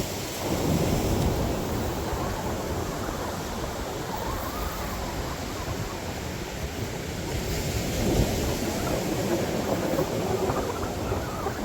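Ocean surf washing onto the beach: a steady, rushing noise that swells and eases.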